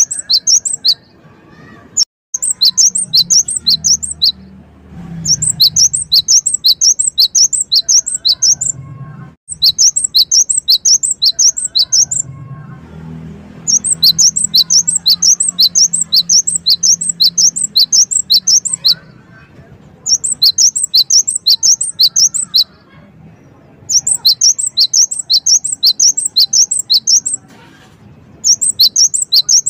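Gelatik wingko song: loud phrases of rapid, repeated sharp high notes, about four a second, each phrase lasting two to five seconds with short pauses between.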